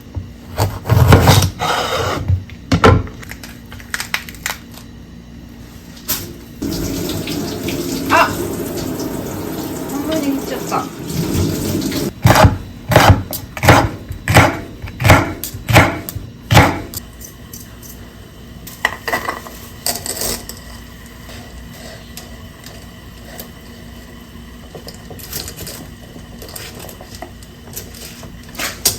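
A tap runs water into a sink for about five seconds, with scattered clatters before it and a run of about eight sharp knocks after it, like dishes being handled.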